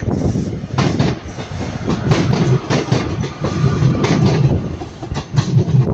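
Northern Class 156 diesel multiple unit passing close by: a loud engine and wheel rumble, with the wheels clacking over rail joints.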